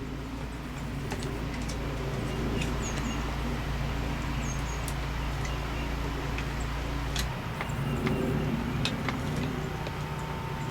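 A steady low mechanical hum like a running motor, with scattered light clicks and taps of small chainsaw parts being handled and fitted.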